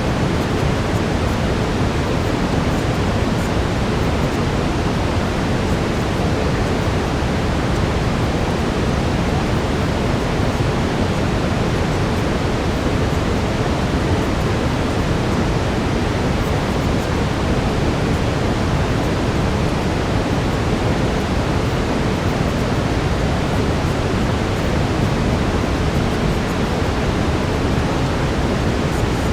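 Steady brown noise: an even, unchanging rush that is strongest and deepest in the low end.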